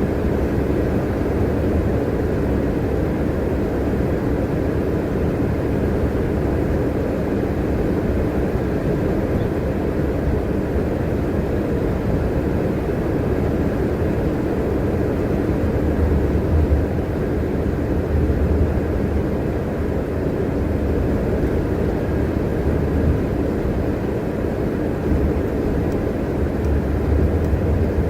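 Steady engine and road rumble heard inside a transit bus cabin while driving, with the deep rumble swelling a few times.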